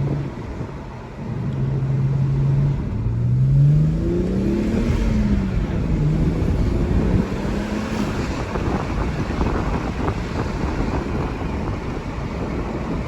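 BMW 335xi's twin-turbo inline-six engine, fitted with an Injen cold air intake: a steady engine note that drops briefly, then a rev that rises and falls about four to five seconds in. After that, road and wind noise take over, with the engine fainter beneath.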